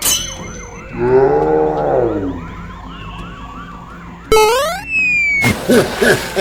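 Cartoon police siren yelping fast in the background, with a short gliding voice-like sound about a second in. From about four seconds a sudden burst of cartoon sound effects, sweeping zaps and a noisy whoosh, takes over.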